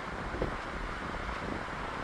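Steady running noise of a Stadler GTW 2/6 diesel multiple unit pulling away from the station, mixed with wind on the microphone, with one brief knock about half a second in.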